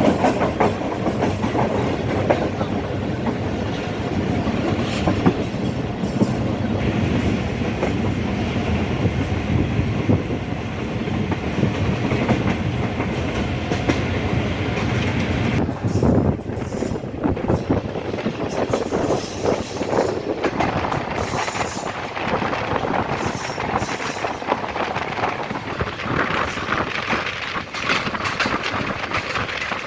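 Passenger express train running on the line, its wheels clattering over the rail joints over a steady rumble.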